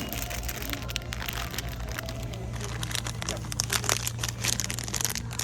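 Irregular crinkling and crackling, as of packaging being handled, over a steady low hum.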